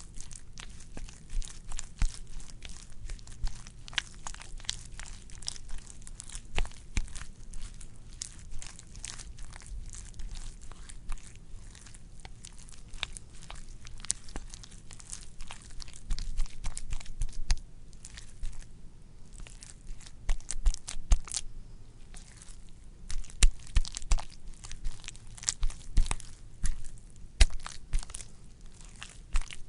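Wet, squishy sounds: a dense, irregular stream of sticky clicks and crackles, with louder pops coming in clusters in the second half.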